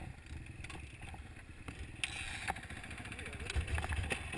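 Motocross bike engine running, mixed with a low rumble and scattered knocks on the microphone; the rumble swells loudest near the end.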